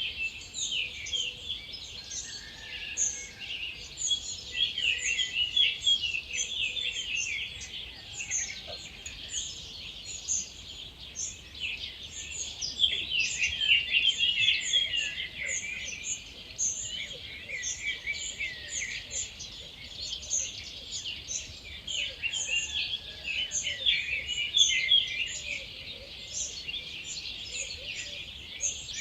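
Dawn chorus: many wild birds singing at once, with dense overlapping song phrases and a steady stream of high chirps, and a faint lower repeated call in the second half.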